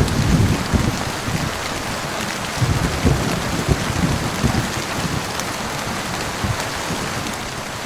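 Heavy rain falling steadily, with a low rumble of thunder that swells in the first second and again around three seconds in.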